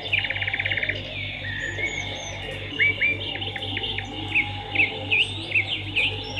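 Swiftlets twittering: a fast buzzy trill in the first second, then a run of quick, sharp chirps that dip and rise in pitch.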